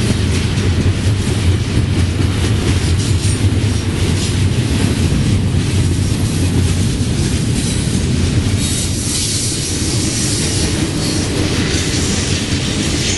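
Double-stack intermodal freight cars rolling past on the track: a steady, loud rumble of steel wheels on rail. It eases off a little near the end as the last car goes by.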